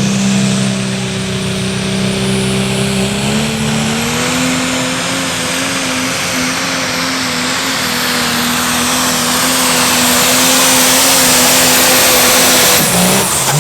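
Turbocharged diesel pulling tractor running flat out on a pull. A steady engine note steps up in pitch about four seconds in, under a high turbo whistle that climbs and then holds. Near the end the throttle is chopped and the note falls away.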